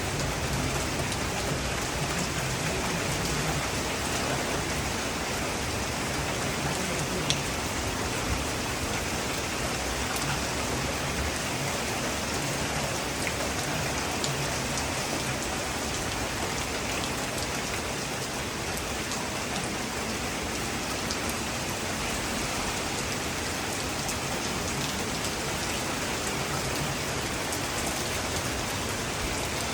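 Steady rain falling, with the tail of a low thunder rumble dying away in the first few seconds.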